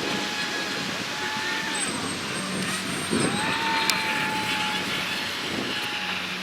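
Radio-controlled model airplane's motor running as a steady whine in the air, falling a little in pitch near two seconds in and sweeping up again about three seconds in, over a haze of wind noise.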